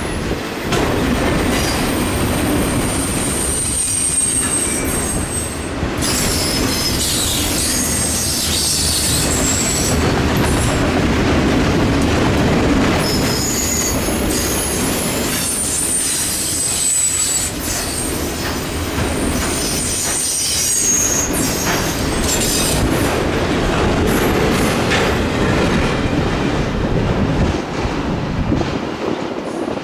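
Freight train cars rolling past, wheels clacking over rail joints, with high-pitched wheel squeal rising and fading several times.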